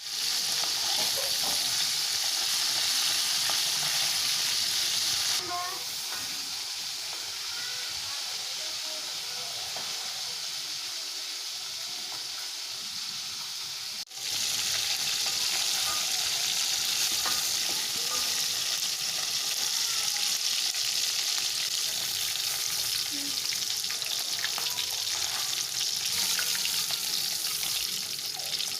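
Food frying in hot oil in a pan, a steady sizzle that drops a little in level about five seconds in and breaks off briefly halfway through before resuming.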